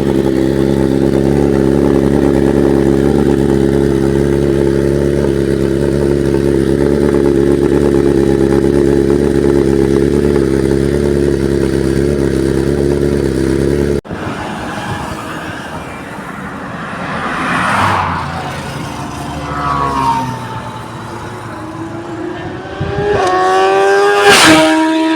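Motorcycle engine idling steadily at an even pitch. After a sudden cut, a bike passes with a swell and fade, then an engine revs up in a rising whine near the end.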